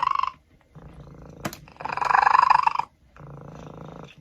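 A cat making loud, rolling, purr-like calls about a second long: one at the start, one in the middle and another beginning at the end. Quieter low rumbling, like purring, fills the gaps between them.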